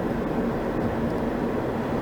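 Steady road noise of a car being driven, tyres and engine making an even rumble with a faint constant hum.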